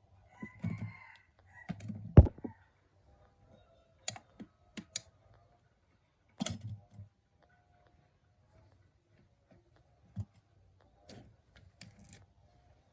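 Scattered clicks, clinks and knocks of tools and small metal engine parts being handled and set down, with a sharp knock about two seconds in.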